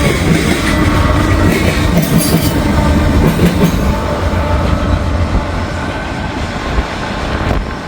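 Norfolk Southern mixed manifest freight train passing close by, with its mid-train distributed power locomotive going through: a loud, steady rumble of steel wheels on rail.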